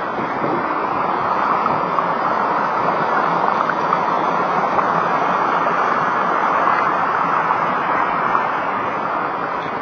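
Mountain stream rushing over rocks, a steady loud wash of water.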